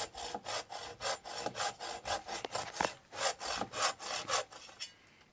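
Handsaw cutting through a dead tree limb, in quick even back-and-forth strokes about three or four a second, stopping shortly before the end.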